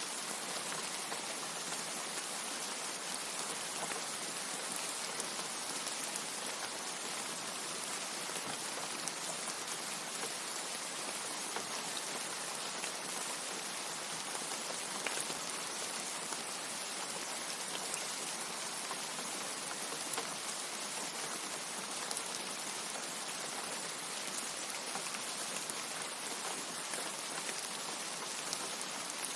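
Steady rain falling, an even hiss with many small drop ticks scattered through it and no thunder.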